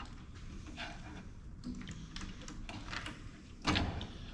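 Light clicks and taps of a thermal printer's plastic casing and metal parts being handled and pried open, with a louder knock about three and a half seconds in.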